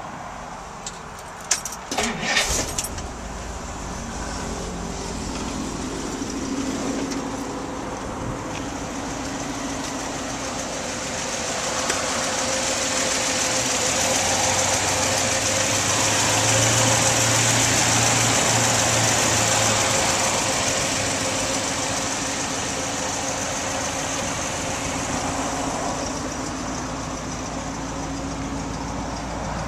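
1956 Dodge Custom Royal Lancer's Super Red Ram V8 catching after a few sharp clicks about two seconds in, then idling steadily, louder for a few seconds in the middle.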